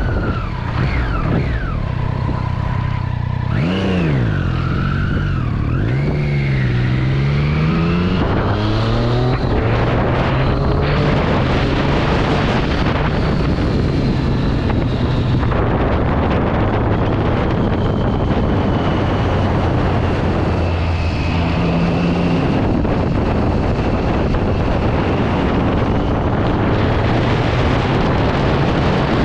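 Triumph Street Triple 675's inline-three engine through its stock exhaust. For the first several seconds it revs up and down repeatedly, then runs at a steadier speed under a heavy rush of wind on the microphone.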